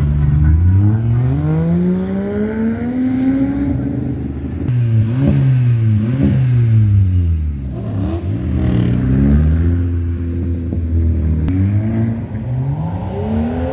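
Car engine revving hard, its pitch climbing over the first few seconds, then several quick up-and-down revs in the middle, a steadier stretch, and more revs near the end.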